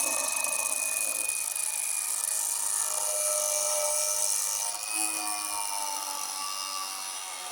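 Electric cutoff grinder running with a steady high whine, its abrasive disc grinding through a misplaced nail in the wooden door frame. The grinding noise eases about five seconds in.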